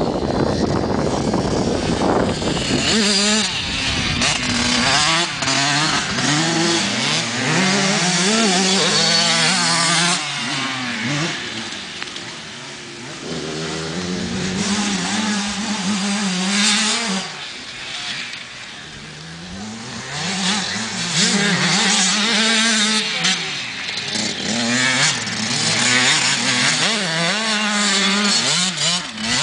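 Motocross bike engines revving up and down repeatedly, their pitch rising and falling with the throttle. They go quieter twice, about a third and about two thirds of the way through. Low wind rumble on the microphone in the first few seconds.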